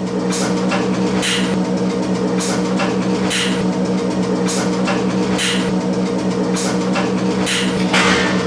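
A steady machine hum with a hiss that pulses about once a second; it holds one pitch throughout.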